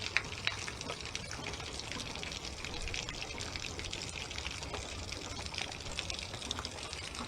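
Water trickling and dripping, a steady wash with many small irregular ticks.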